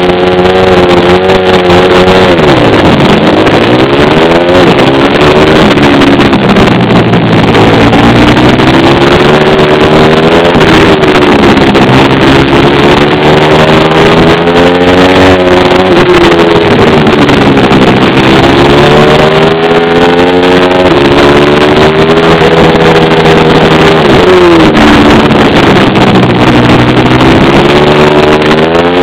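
Small single-cylinder four-stroke pit bike engine at full throttle, revving up and dropping back over and over as the bike accelerates, shifts and slows for turns.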